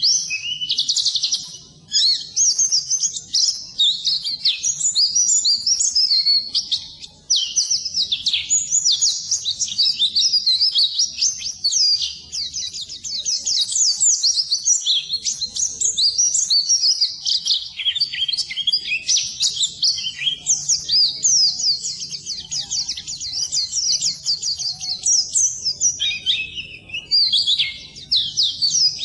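Pleci (white-eye, Zosterops) singing a continuous, rapid high-pitched twittering song made of quick falling notes, with brief pauses about 2 and 7 seconds in.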